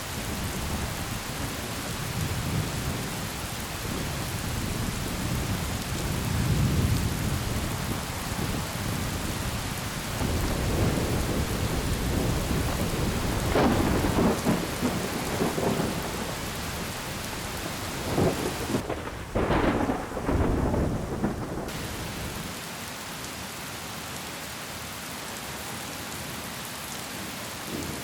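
Thunderstorm: steady heavy rain with thunder rumbling, and several sudden louder bursts around the middle.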